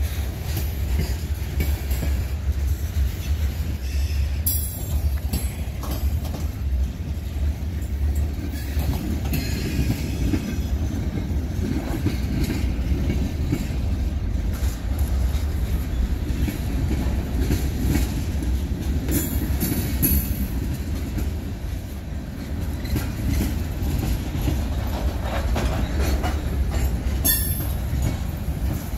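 Norfolk Southern manifest freight train rolling past: a steady low rumble of wheels on rail, with brief high wheel squeals about four and a half seconds in and again near the end.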